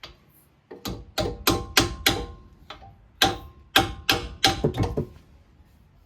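Hammer striking metal brake-caliper hardware in a quick series of about a dozen sharp blows. Each blow has a short metallic ring, and the blows stop about a second before the end.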